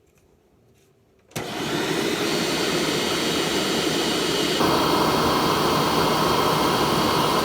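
A Hoover WindTunnel U6451 upright vacuum's motor switched on about a second in, coming straight up to a loud, steady run; past the middle it gets a little louder and a higher whine comes in. The owner judges this motor bad enough to replace.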